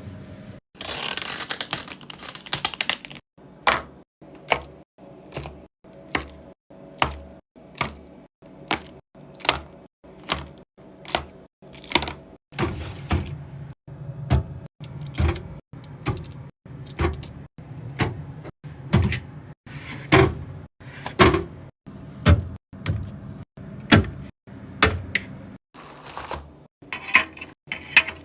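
Food containers, jars and packages being set down and placed on refrigerator shelves one after another, a clack or knock about once a second, with a rustle of packaging in the first few seconds.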